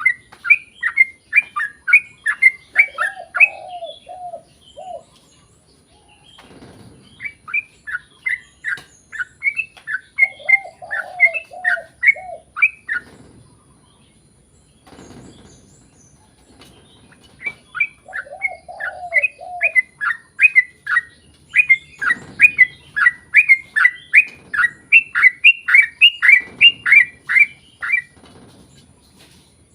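Trucukan (yellow-vented bulbul) singing a long rapid series of loud chirps, about three to four a second, in three long runs broken by short pauses. Each run is mixed with a brief lower warbling phrase, and a few dull thumps fall in the gaps.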